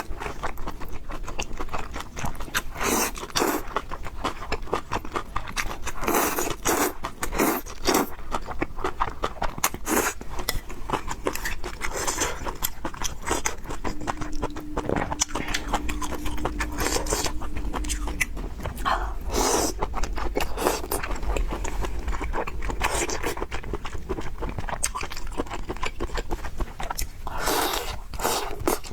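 Close-miked eating: irregular chewing, biting and wet mouth noises as noodles and pork are eaten.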